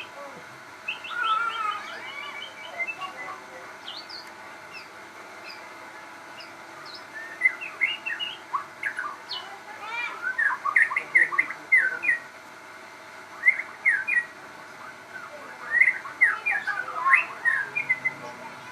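Crossbred white-rumped shama (murai batu) singing in several bouts of quick, varied chirps and whistles separated by short pauses.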